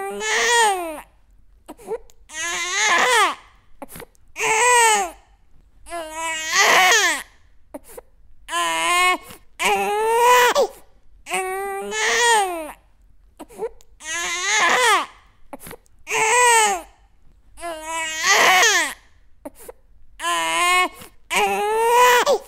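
Baby crying in repeated wails, about a dozen of them, one every two seconds or so, each cry rising and then falling in pitch, with short gaps for breath between.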